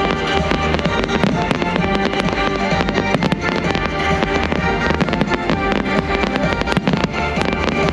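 Fireworks bursting, with frequent sharp bangs and crackles, over loud show music played through outdoor speakers.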